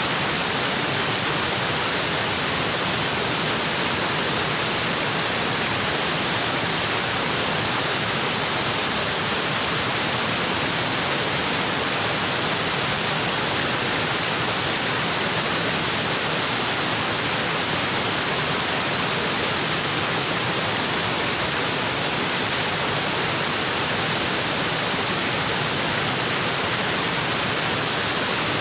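Waterfall in a tropical forest, water pouring onto rocks in a steady, even rush.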